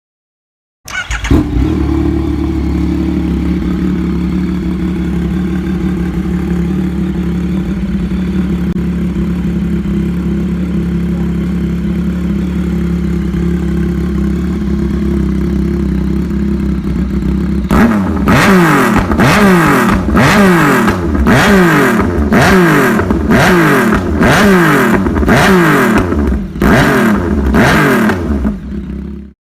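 Yamaha MT-09 inline three-cylinder motorcycle engine starting after about a second and idling steadily through its exhaust. Then, for the last ten seconds or so, it is blipped through a dozen or so quick revs, each rising and falling back, before it cuts off suddenly.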